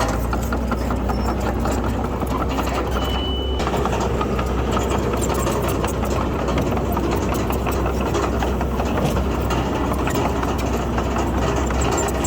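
Heavy earthmoving machinery's diesel engine running steadily, with dense clanking and rattling over a low hum. A short high squeal about three seconds in.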